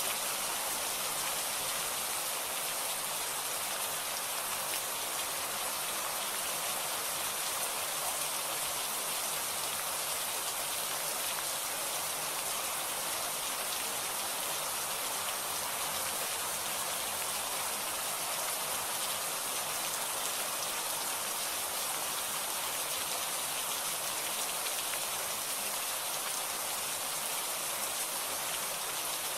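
Steady heavy rain falling and pattering on surfaces, an even hiss with no breaks or thunder.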